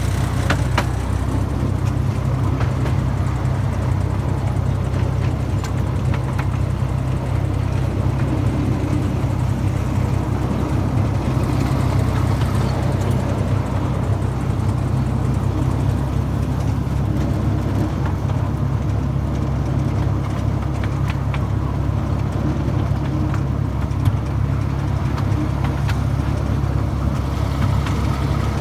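Miniature railway locomotive's engine running steadily with a deep, even hum, a few faint clicks over it.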